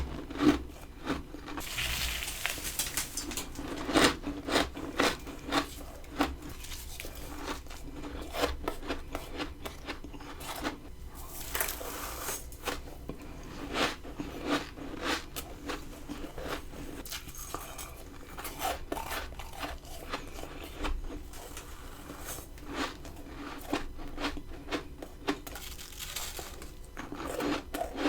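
Close-up crunching and chewing of mouthfuls of freezer frost, with irregular, crisp bites one after another.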